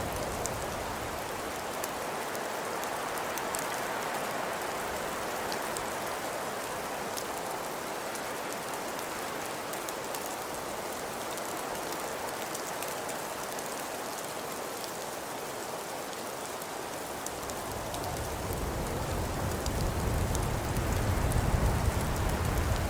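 Birchwood fire crackling in a hearth: a steady hiss dotted with many small sharp pops. A low rumble builds from about three-quarters of the way in.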